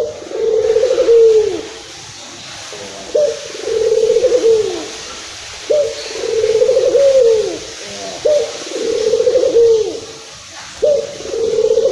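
Local Indonesian puter dove (Barbary dove) cooing: about five calls, each a short rising note followed by a longer coo that falls away at the end, repeating every two and a half seconds or so. It is a full, energetic calling bout of the kind used as a lure to make other puter doves answer.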